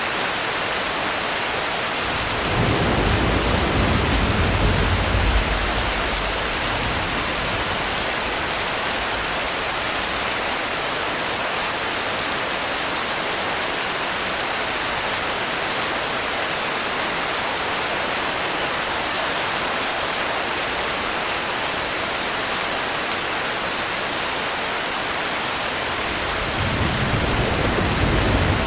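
Steady, heavy rain falling, with low rolls of thunder: one rumble a couple of seconds in that lasts about three seconds, and another that starts near the end.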